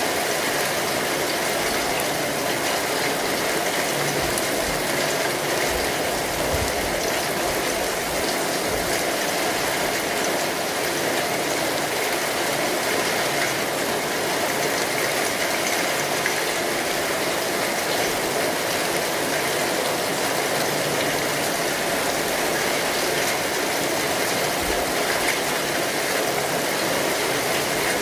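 Steady rain falling on an umbrella canopy: a dense, even hiss of many small drop hits that never lets up.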